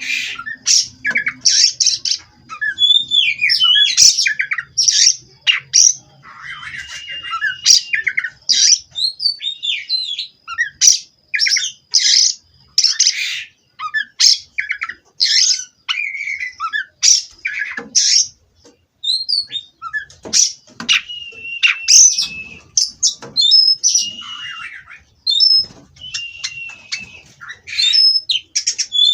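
Oriental magpie-robin (kacer) singing a loud, rapid, varied song of whistles, trills and harsh squawking notes, with short pauses between phrases.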